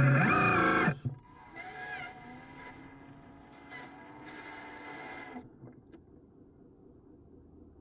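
Whine of an RC construction model's small electric motors and gearing, rising and falling in pitch. It is loud for the first second, then fainter, and stops about five and a half seconds in.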